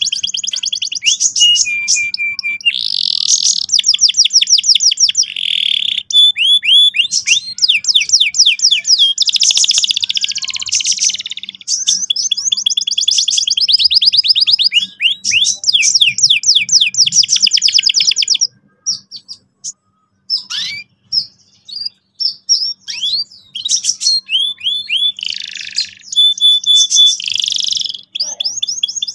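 Domestic canary singing long, fast rolling trills of rapidly repeated high notes. The song breaks into a few seconds of scattered short notes just past the middle, then the trills resume.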